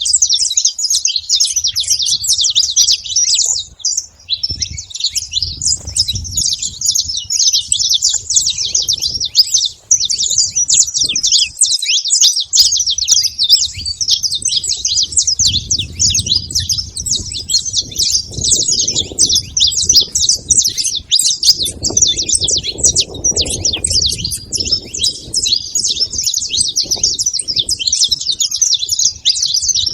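Saffron finch singing a long, fast, chattering song of high chirps, pausing briefly twice. A low rumble comes and goes beneath it.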